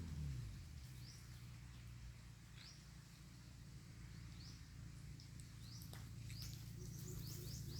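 A small bird giving short, rising chirps again and again, coming more often toward the end, over a faint low rumble.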